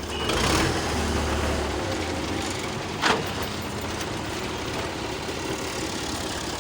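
Tractor's diesel engine running steadily, a little louder for the first couple of seconds, with one brief sharp noise about three seconds in.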